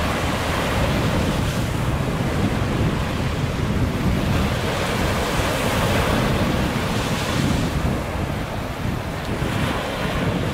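Sea breeze buffeting the microphone with a steady low rumble, over the wash of small waves on a sandy beach, the hiss of the surf swelling and fading twice.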